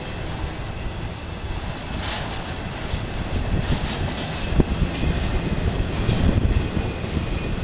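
Intermodal freight train rolling past: a steady rumble and rattle of the cars on the rails, with occasional sharp knocks.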